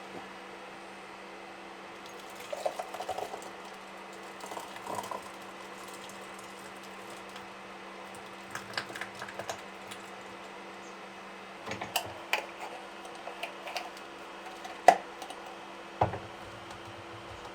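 Light clicks and clinks of kitchen utensils and jars being handled while making jam, with two sharper knocks near the end, over a steady low hum.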